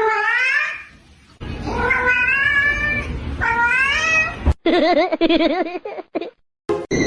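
A cat meowing three times, long drawn-out meows that rise in pitch. About four and a half seconds in, after a sudden break, a lower wavering cry follows.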